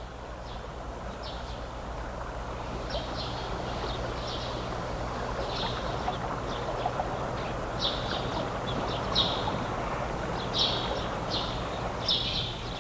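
Small birds chirping in short, repeated bursts, more often after the first few seconds, over a steady low hum and hiss.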